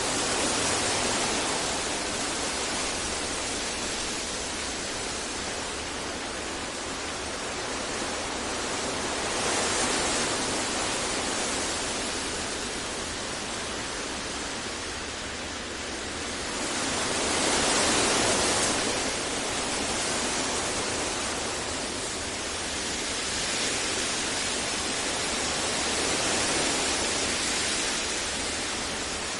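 Continuous synthetic noise of the kind played for sleep and focus, an even hiss with no tones or clicks, swelling gently in loudness about every eight to nine seconds.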